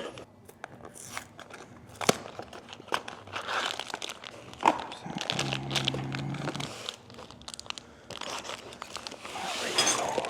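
Hands handling parts in a workshop: scattered clicks and knocks of pieces being picked up and set down, amid crinkling and rustling. A low steady hum sounds for about a second and a half midway.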